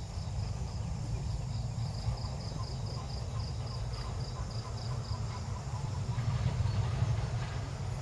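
An insect chirping in a regular run of high pulses, about five a second, that stops about five seconds in, over a steady low rumble.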